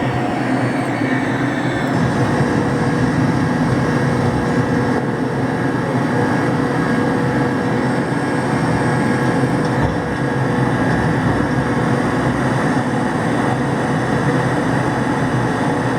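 Steady jet engine and airflow noise of a McDonnell Douglas DC-10 airliner during takeoff, a dense even rumble with a faint steady whine on top.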